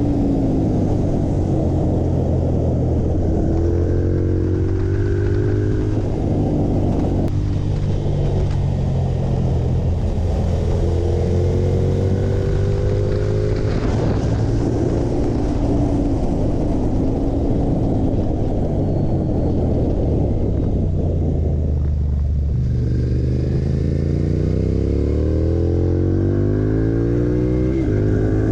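Ducati V-twin motorcycle engine under hard acceleration. The pitch climbs through each gear and drops sharply at every shift, several times over, with a deep drop and a long rising pull near the end.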